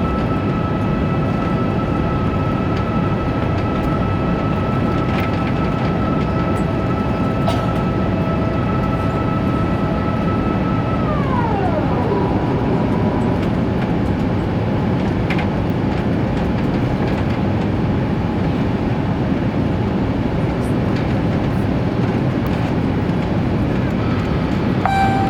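Steady engine roar of an Airbus A350-1000's Rolls-Royce Trent XWB engines heard from inside the cabin during the climb, with a high whine over it. The whine slides down in pitch about halfway through.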